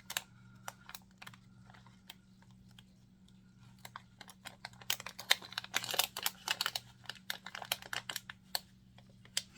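Hands handling small cosmetic containers and packaging from a box: scattered clicks and light rustling, turning into a quick run of clicks and rustles from about halfway in, over a steady low hum.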